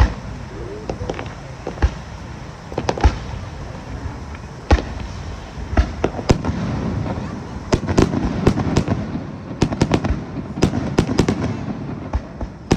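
Aerial fireworks shells bursting in a series of sharp bangs, scattered at first and then coming in a rapid barrage over the second half.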